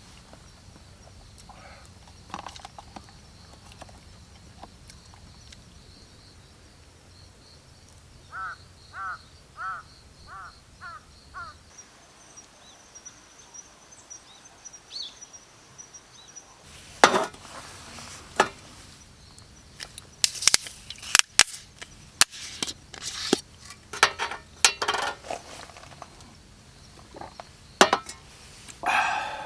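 Dry wood cracking and snapping in sharp, irregular pops, loudest in the second half. Before that, a bird calls six times in quick succession over a steady high insect drone.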